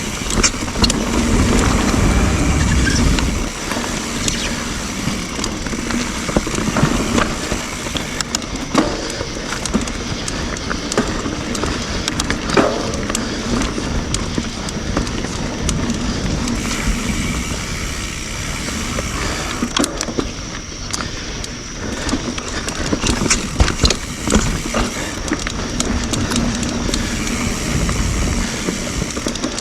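YT Jeffsy full-suspension mountain bike being ridden on dirt singletrack: steady tyre noise over the trail with frequent knocks and rattles from the bike over roots and rocks, heavier low rumble in the first few seconds and near the end.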